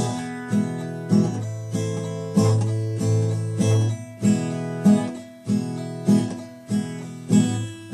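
Acoustic guitar playing alone between sung lines: a steady run of chords struck a little under twice a second, each left to ring and fade before the next.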